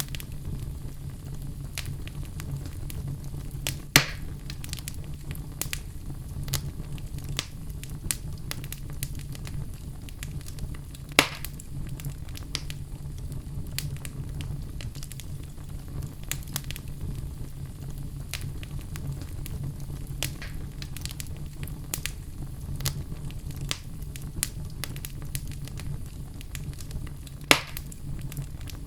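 Wood fire burning in a fireplace: a steady low rumble of the flames with frequent irregular crackles and three louder pops, about four seconds in, eleven seconds in and near the end.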